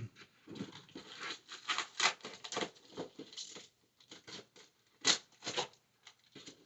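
Cardboard shipping box being handled and opened: irregular scraping, rustling and tearing in short uneven bursts, with a few brief pauses.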